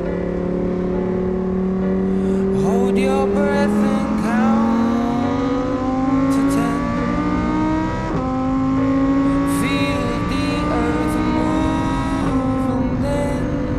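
Lamborghini Aventador's V12 engine accelerating under load, its pitch climbing steadily, dropping sharply at a gear change about eight seconds in, then climbing again.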